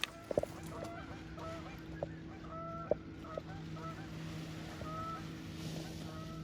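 Birds calling: many short, honk-like calls overlapping, over a steady low hum.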